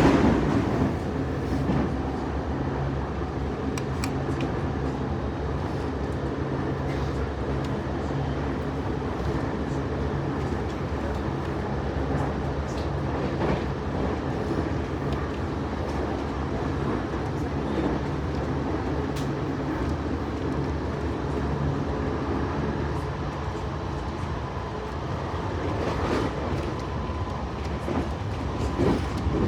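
Airport express train running steadily at speed: a continuous rumble and rolling hum with a few faint clicks from the wheels. A louder rush of air noise fades about a second in.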